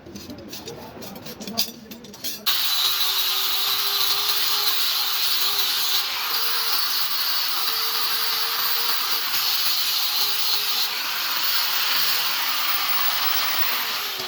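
An electric power tool switches on about two and a half seconds in and runs steadily with a loud hissing rush over a held motor hum, then winds down near the end as the motor slows.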